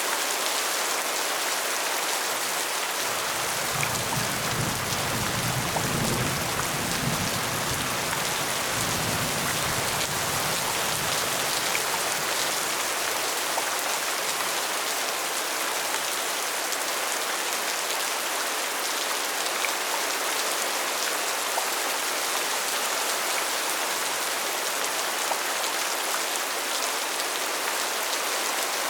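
Steady rain falling, an even hiss, with a low rumble for several seconds a few seconds in.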